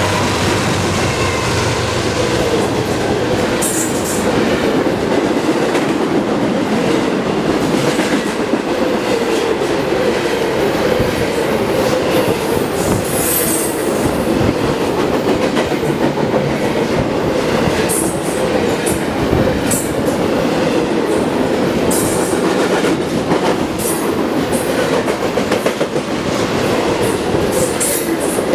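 BNSF intermodal freight train passing at speed: a steady loud rumble and clatter of wheels on the rails as the cars roll by, with sharp clicks here and there.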